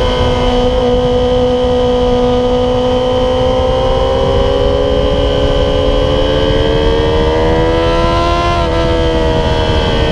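Yamaha YZF-R6 inline-four sportbike engine with an MGP Growler exhaust, pulling hard on track, its note climbing slowly for about eight seconds, then dipping sharply and winding down toward the end. Heavy wind rush on the microphone underneath.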